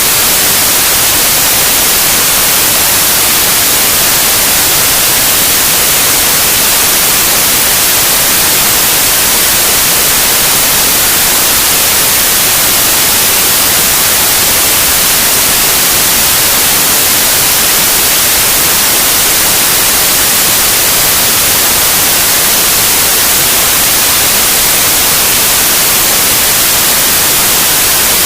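Loud, steady white noise: an even hiss across all pitches, brightest in the highs, with no change.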